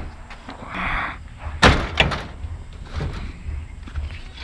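Salvaged items being loaded into a truck: a sharp knock about one and a half seconds in, a smaller one right after, and a few lighter knocks and rattles.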